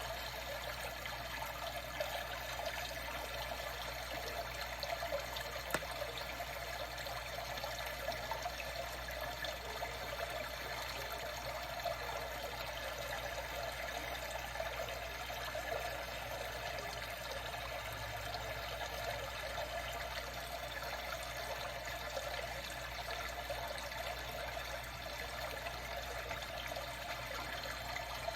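Water trickling and lapping in a steady, even flow, with faint small splashes.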